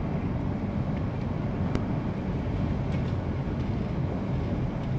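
Steady low rumble of a car being driven on a slick, snow- and ice-covered road: engine and tyre noise.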